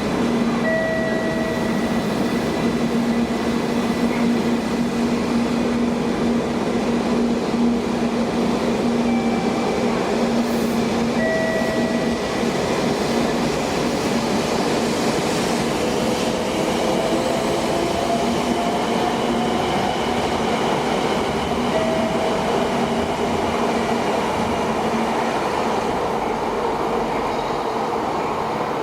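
Shinkansen bullet train running through the station: a steady, loud rumble with a low hum, short repeated higher tones, and an electric motor whine that rises in pitch a little past the middle.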